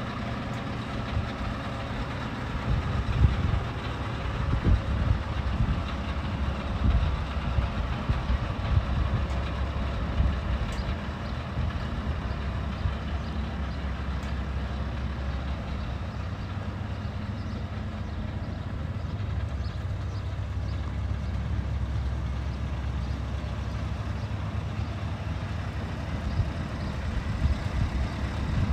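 Scania R730 truck's V8 diesel engine running with a low rumble, uneven with loud peaks for roughly the first dozen seconds, then steady.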